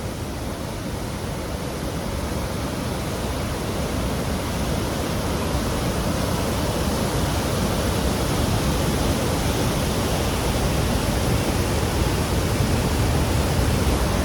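Khon Phapheng Falls on the Mekong: a steady roar of rushing water, growing gradually louder.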